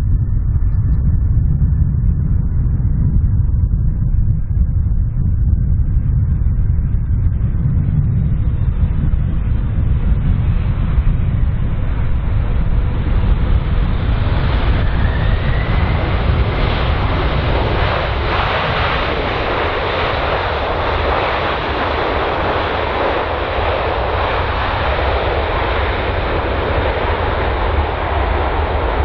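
Boeing 767 airliner's jet engines on approach to land, growing louder from about a third of the way in and staying loud, with a faint rising whine just past the middle. A steady low rumble runs underneath.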